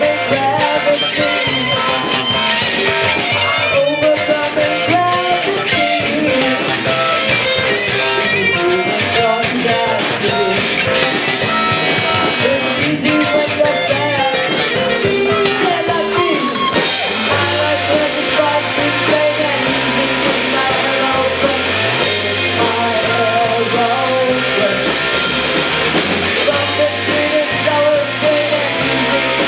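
Live rock band playing: guitar and drum kit with a stepping bass line underneath and singing over the top.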